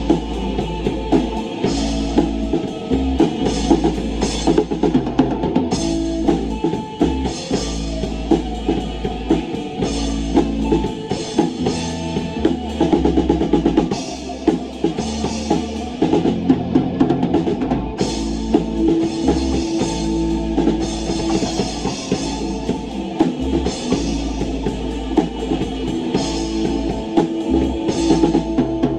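Rock band playing live: drum kit with bass drum and snare under a distorted guitar and a bass line, a steady groove.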